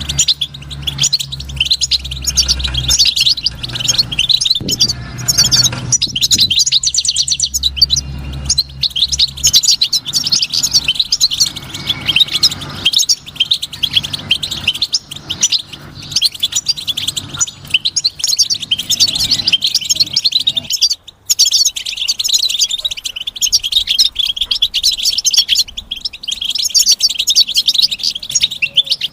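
European goldfinch singing: a long, rapid run of high twittering and tinkling notes that barely pauses, apart from a brief break about two-thirds of the way through. A low hum sits beneath the song for roughly the first third.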